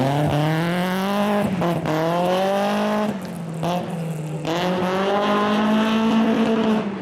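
Rally car engine accelerating hard, its pitch climbing and then dropping sharply three times, like gear changes or lifts, before holding at high revs.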